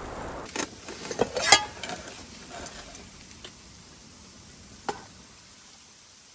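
A few sharp clicks and knocks, the loudest about one and a half seconds in and another near five seconds in.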